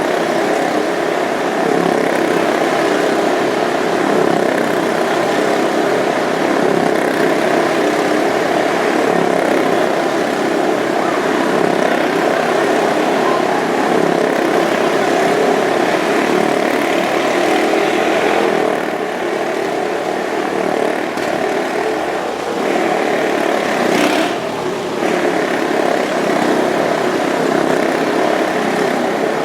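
Motorcycle engines running hard as riders circle the Wall of Death, a steady drone that wavers as they go round, with a slight dip about two-thirds of the way through.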